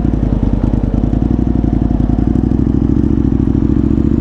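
Aprilia Tuono 1000R motorcycle engine and exhaust running steadily under way, a dense, even pulsing note.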